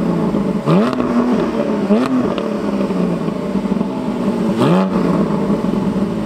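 Porsche 718 GT4's naturally aspirated 4.0-litre flat-six, through an Akrapovic exhaust, revved with three quick throttle blips over idle, each rising sharply and falling back. It is really loud.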